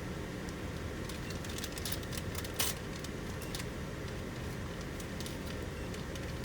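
Mercedes Sprinter diesel engine idling steadily with a low, even sound, and a single sharp click about two and a half seconds in.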